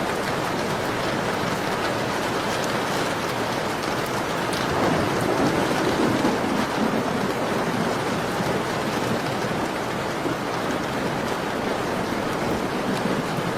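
Steady rain falling, a dense even hiss with scattered faint ticks. A low rumble swells about five seconds in and eases off by seven.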